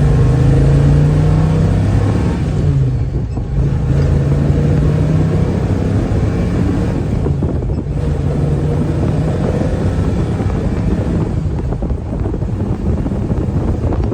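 A motor vehicle engine running loud and close at a fairly steady low pitch, with only slight rises and dips.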